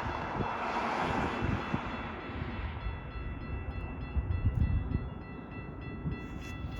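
Metra commuter train on the rails: a steady low rumble with a rushing hiss that swells about a second in and dies down after two seconds.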